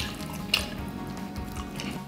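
Wet chewing and smacking of a mouthful of saucy jjajang instant noodles, with two sharp wet smacks, one at the very start and one about half a second in, over steady background music.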